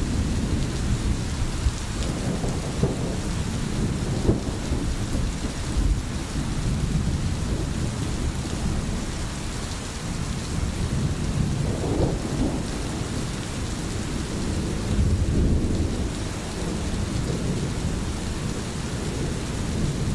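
Steady rain with a continuous, rolling low rumble of thunder underneath.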